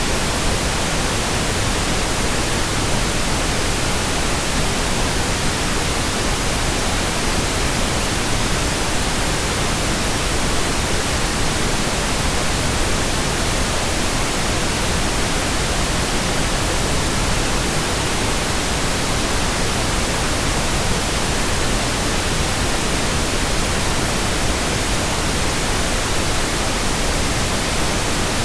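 Steady, unbroken white noise: an even hiss that spreads across all pitches and does not change.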